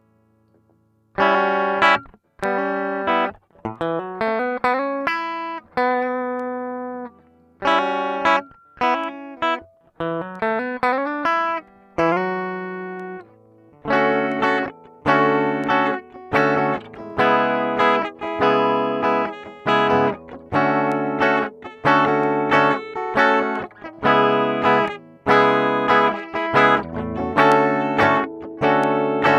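Squier Bullet Mustang electric guitar played clean through its bridge pickup with no effects, starting about a second in. First come picked single notes and arpeggiated chords with short pauses, then from about halfway a steady rhythm of strummed chords.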